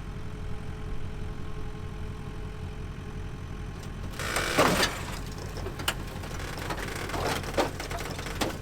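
A vehicle engine runs steadily underneath a loud crunch and scrape of rusted sheet metal about four and a half seconds in, followed by a few smaller creaks and knocks.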